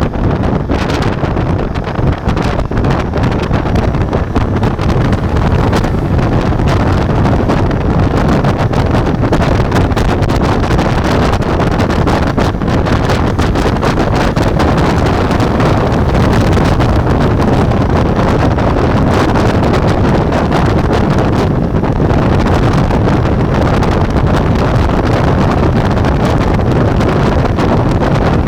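Ducati Multistrada V4 motorcycle riding along, its V4 engine running under heavy wind rushing over the action camera's microphone.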